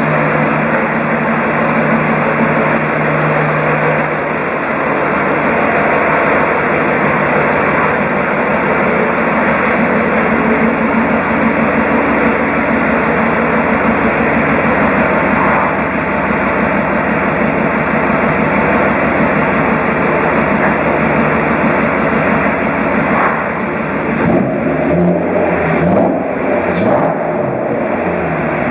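Mercedes-Benz M119 5.0-litre V8 of an R129 SL500 running just after an engine refresh. It runs steadily, and its engine speed rises and falls a few times near the end.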